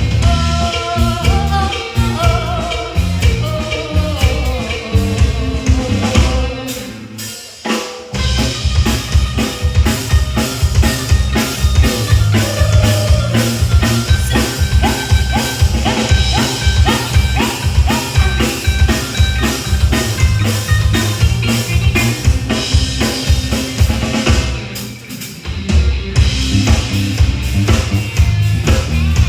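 A live band plays music with a drum kit keeping a steady, driving beat of kick, snare and rimshots under melodic lines. The music drops away briefly about seven seconds in and again about twenty-five seconds in, then comes back in.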